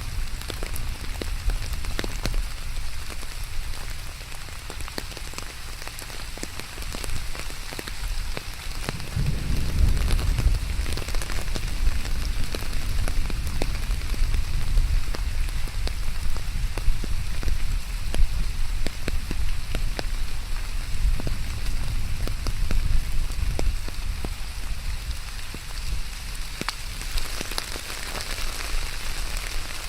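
Steady rain falling on a hard surface, with many individual drops ticking sharply close by. A low rumble swells up about nine seconds in and carries on under the rain.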